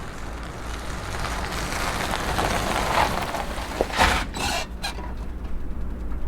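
An SUV's engine runs low as it returns, with a rush of noise that builds and then fades. About four seconds in there is a short, loud burst of crunchy noise, after which only the low engine rumble remains.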